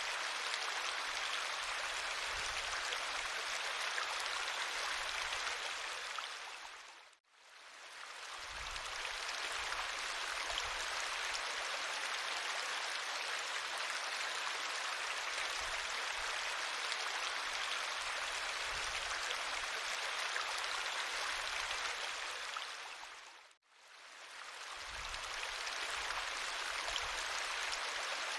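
River water flowing steadily as an even rushing, fading away to nothing and back in twice, about seven seconds in and again near the end.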